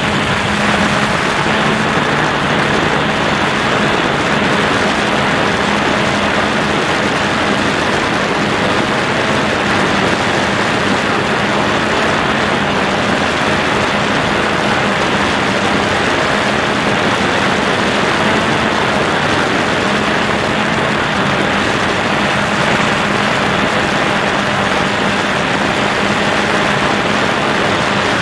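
DJI Phantom 2 quadcopter's motors and propellers running with a steady hum, under a heavy rush of wind noise.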